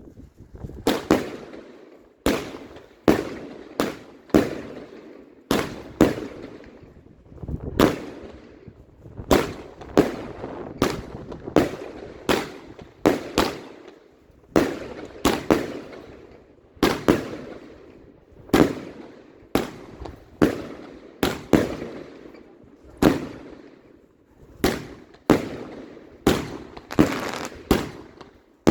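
Fireworks bursting overhead: a long run of sharp bangs, roughly one or two a second, each trailing off in a fading echo, with a quicker cluster of bangs near the end.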